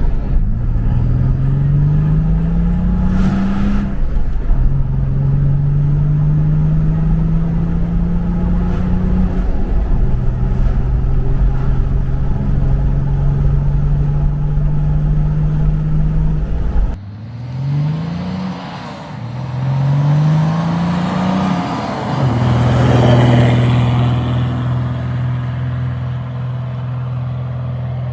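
Nissan GU Patrol's 2.8-litre RD28 turbo-diesel straight-six accelerating hard from a standstill through the gears. The engine note climbs in each gear and drops at each shift, then settles to a steady run. The engine is chipped and runs a 3-inch exhaust with a hot dog muffler. About two-thirds of the way in there is an abrupt cut to a second take: two quick climbs, then steady running.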